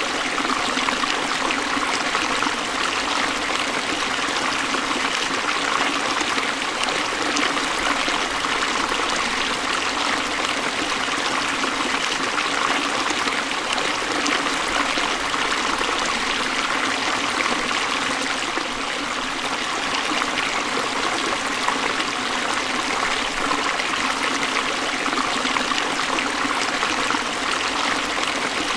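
Forest stream flowing steadily over rocks, a continuous rush and trickle of water.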